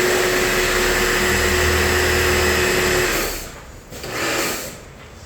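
Small electric pressure washer running and spraying water, a steady motor hum under the hiss of the jet. It cuts off about three seconds in, then gives one short burst about a second later.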